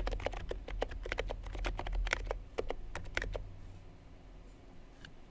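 Typing on a Niz Duo 82 electro-capacitive (Topre-style) keyboard with lubed sliders, Deskeys Purple domes and GMK keycaps: a fast run of keystrokes that stops about two-thirds of the way through, leaving a few scattered key clicks.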